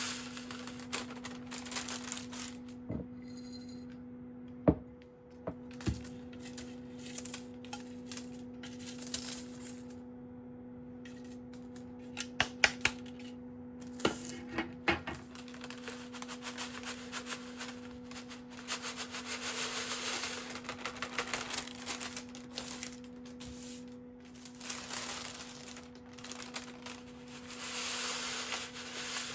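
Herb leaves being handled and stripped by hand: rustling and crinkling with scattered light clicks, over a steady low hum.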